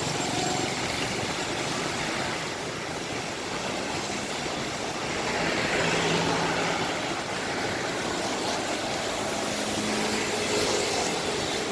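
Heavy rain falling, with bus engines running and passing. A louder rush swells about two seconds in and cuts off sharply.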